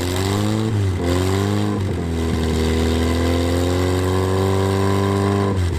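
Stock car engine revved three times: two short rises in pitch, then a longer rev held and slowly climbing for about three and a half seconds before it drops away near the end.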